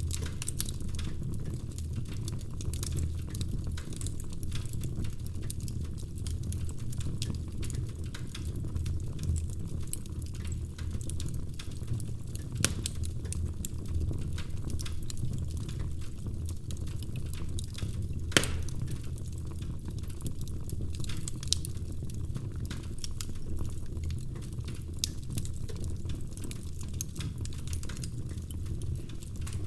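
Wood fire crackling in a fireplace: a steady low rumble of flames under constant small crackles, with a few louder sharp pops, the loudest about two-thirds of the way in.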